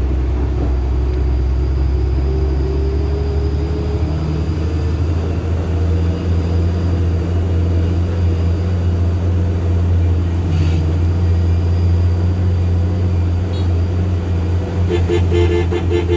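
Diesel engine of a light truck pulling uphill under load: a steady low drone that shifts slightly in pitch about five seconds in.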